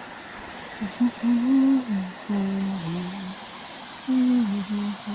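A person humming the melody of a worship song without words, a run of held notes that step and glide in pitch, over a steady faint hiss.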